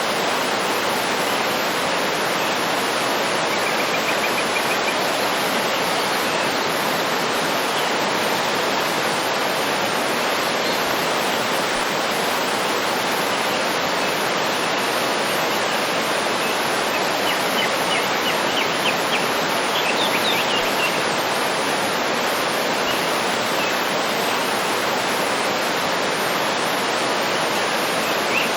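Waterfall: a steady rush of falling water. Faint bird chirps come through now and then, mostly about two-thirds of the way in and again at the end.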